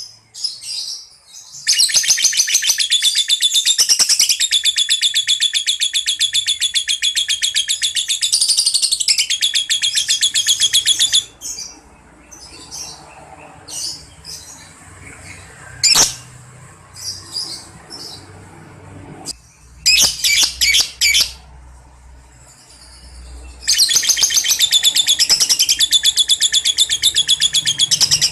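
Lovebird ngekek: a long, unbroken, rapid high-pitched chattering trill lasting about nine seconds, then scattered softer chirps, a short burst of trilling about twenty seconds in, and another long trill starting near the end.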